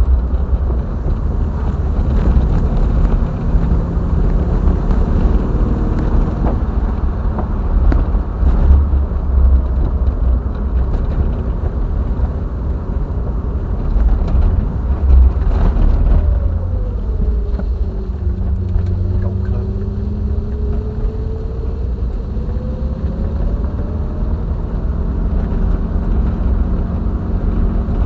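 Triumph TR7's 4.6-litre V8 and road rumble as the car drives along. Just past halfway the engine note falls as the car slows, then climbs steadily again as it picks up speed.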